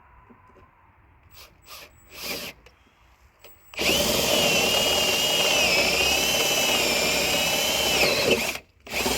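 Electric drill with a long extension bit boring into a wooden rim joist. After a few light knocks, about four seconds in, the drill runs steadily under load for about five seconds with a wavering whine, then stops. A second short burst starts just before the end.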